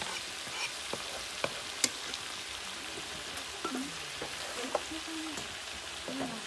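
Chicken curry sizzling in hot oil in a metal karahi, with chopped tomatoes just tipped into the pan, a steady hiss. A few sharp clicks and knocks of the spatula against the pan, the loudest a little under two seconds in.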